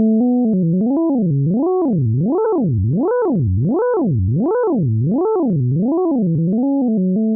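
Synthesized tone, a math function turned into sound, whose pitch slides steadily up and down in a zigzag about three times every two seconds. The swings grow wider toward the middle and narrow again toward the end, and the tone starts and stops abruptly.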